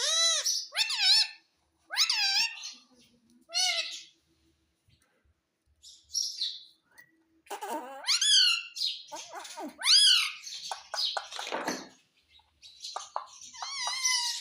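Pet parrot calling: a string of short, high chirps and screeches with wavering pitch. There is a pause of a few seconds in the middle, then a busier run of calls and chatter.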